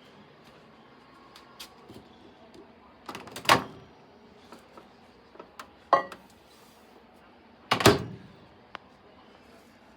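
Microwave oven door being handled: three clunks spread over several seconds, the loudest about a third of the way in and again near the end as the door is shut.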